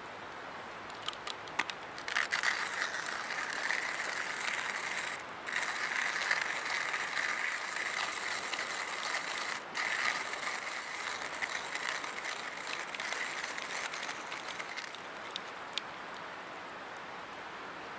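Hand-cranked coffee mill grinding beans: a continuous rasping, clicking crunch that starts about two seconds in, breaks off briefly twice, and stops a few seconds before the end.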